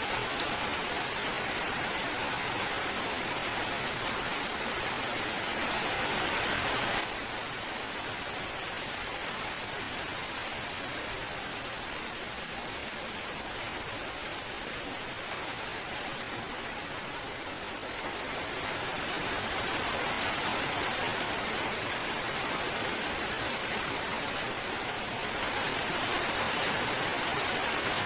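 Steady rain falling, a dense even hiss. It drops abruptly to a softer level about seven seconds in, then gradually builds back up to full strength toward the end.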